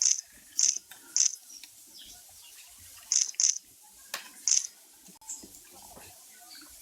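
A small bird chirping: about six short, high chirps at irregular intervals, two of them in quick succession about three seconds in. Faint clicks and crackles lie between them.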